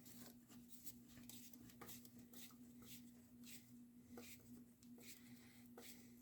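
Faint clicks and scrapes of a nylock nut being tightened with a wrench and vice grip, over a low steady hum.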